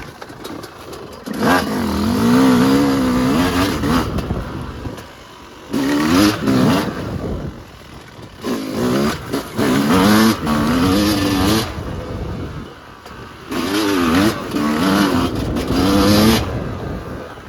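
Yamaha YZ250 two-stroke dirt bike being ridden. The engine revs up in about four surges of throttle, with a wavering pitch, and drops back between them as the throttle is rolled off.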